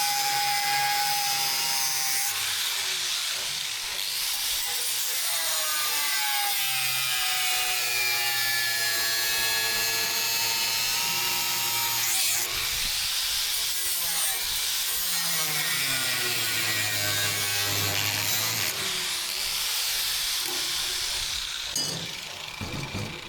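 A power tool cutting, a steady rasping noise with a whine that sags and rises as the load changes. It stops near the end.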